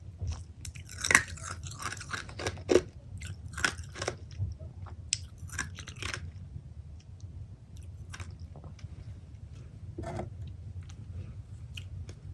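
Close-miked chewing and biting of pepperoni pizza, with crisp crunching. The crunches are dense for the first half and then come fewer and fainter.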